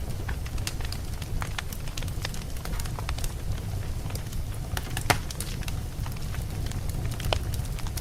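Campfire crackling: irregular sharp pops and snaps of burning wood over a steady low rumble, with the loudest pop about five seconds in.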